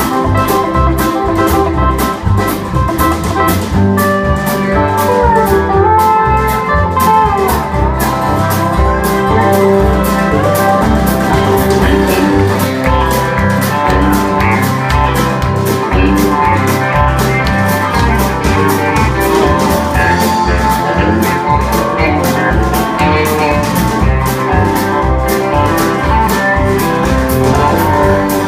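Live country band playing an instrumental break: a guitar lead, with notes bent in pitch, over bass and a drum kit keeping a steady beat.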